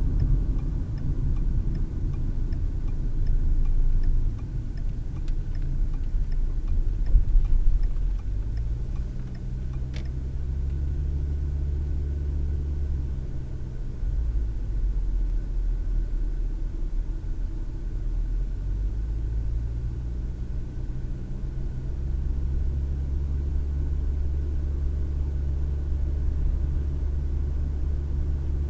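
Car cabin sound picked up by a dash cam: low road and engine rumble while driving, with a light regular ticking over the first several seconds. About a third of the way in the rumble eases into a steadier, quieter low engine hum.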